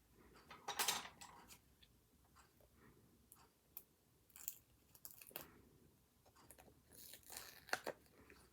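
Paper and stationery being handled on a desk: light clicks and taps, with two louder rustles of paper, one about a second in and one near the end.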